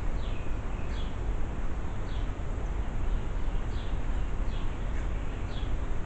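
A bird chirping a short falling note about once a second, over a steady low background rumble.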